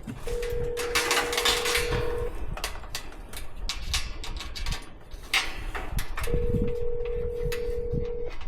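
Telephone ringback tone heard through a phone's speaker, two rings each about two seconds long with a pause of about four seconds between them: the call is ringing unanswered. Scattered clicks and knocks sound underneath.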